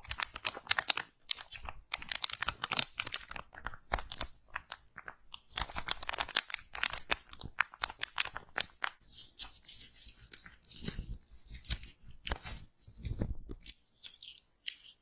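Slime being squeezed and pressed up close, a dense run of crunchy crackles and pops that thin out in the last few seconds.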